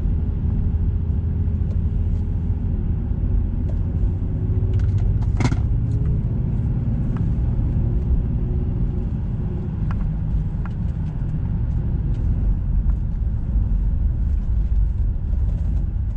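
SUV driving on pavement, heard from onboard: a steady low rumble of road and engine noise, with a few faint clicks and one sharper click about five and a half seconds in.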